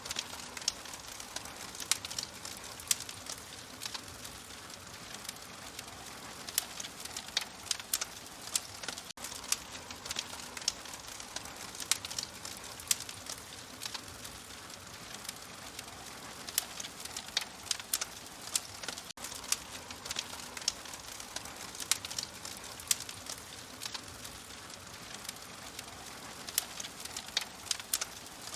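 Fire crackling in a fireplace: frequent irregular sharp pops and snaps over a steady soft hiss.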